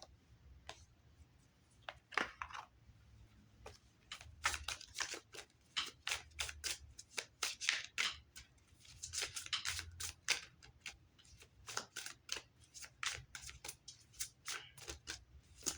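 A deck of oracle cards being shuffled and handled by hand: a long run of quick, irregular card snaps and rustles.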